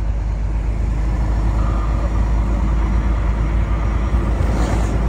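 Heavy truck's diesel engine and road noise inside the cab while driving, a steady low drone, with a brief hiss near the end.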